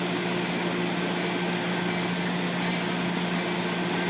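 Metra diesel locomotive running steadily, a constant low engine hum with one steady tone.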